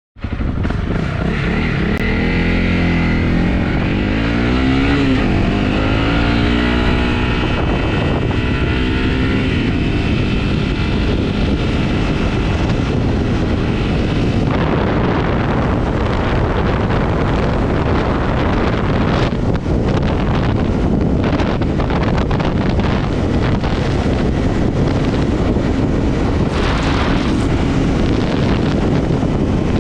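Honda CRF250's single-cylinder engine pulling away, its note rising and falling with the revs. From about halfway, wind buffeting on the microphone swamps the engine as speed builds.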